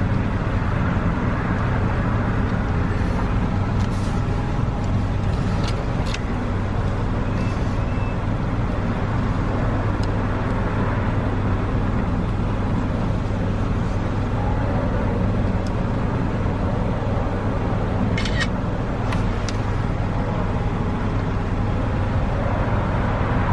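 Car engine idling, a steady low hum heard from inside the cabin, with a few faint clicks here and there.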